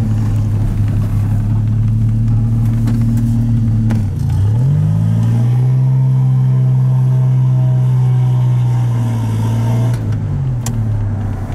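The Stage-2 PRV V6 engine of a 1981 DeLorean DMC-12 with custom electronic fuel injection, heard from inside the cabin while driving. It runs at a steady pitch, dips briefly about four seconds in, climbs to a higher steady pitch, and drops back down about ten seconds in.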